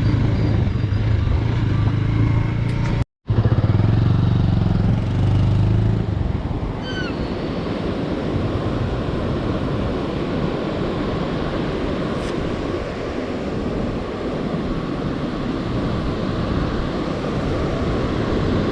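Motorcycle engine running steadily, with a sudden dropout about three seconds in. After about six seconds it gives way to the steady rush of a waterfall.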